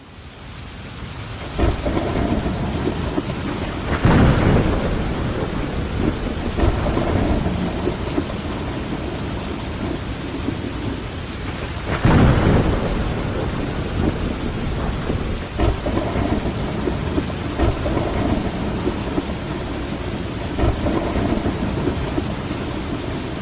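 Steady rain beating on window glass, fading in at the start, with rumbles of thunder swelling loudest about 4 and 12 seconds in.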